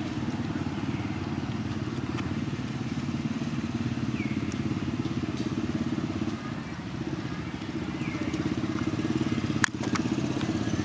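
Small engine, like a motorcycle's, running steadily with a fast even pulse. A few faint short high chirps sound over it, and there is a sharp click near the end.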